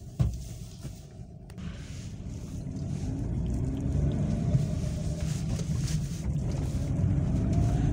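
Maruti Suzuki Alto's three-cylinder engine and road noise heard from inside the cabin while driving, the engine note rising and growing louder as the car gathers speed.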